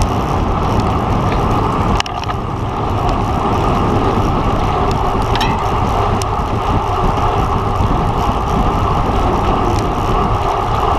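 Wind rushing over the microphone of a camera on a road bike ridden at racing speed: a steady, loud rush mixed with tyre noise on the road, with a brief dip about two seconds in.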